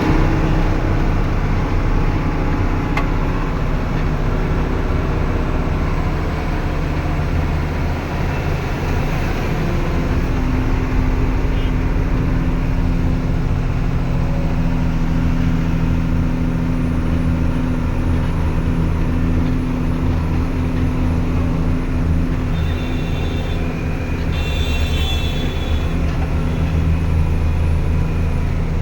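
Truck engine running steadily on the move, a low drone mixed with road noise. A brief higher-pitched tone cuts in about three-quarters of the way through.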